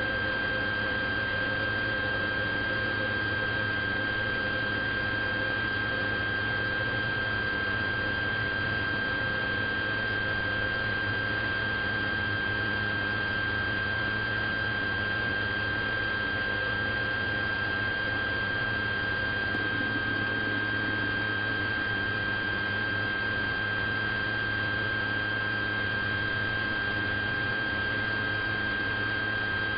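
A steady hiss with a constant high-pitched whine and a low hum underneath, unchanging throughout.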